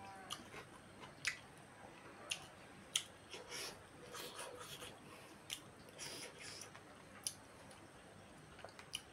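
Close-up eating sounds of rice and chicken curry eaten by hand: soft wet chewing and mouth smacks, with sharp sticky clicks every second or so.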